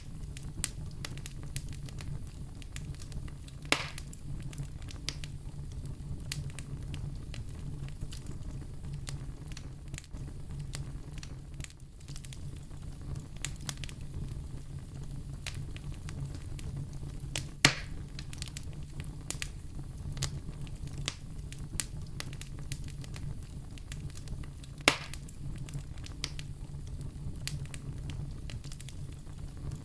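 Wood fire crackling in a fireplace: a steady low rumble with many small crackles and three louder pops, about four seconds in, about halfway through and near the end.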